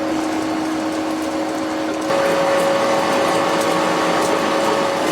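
Factory machinery running with a steady whirring hum carrying two steady tones, growing louder about two seconds in, with faint light ticks over it.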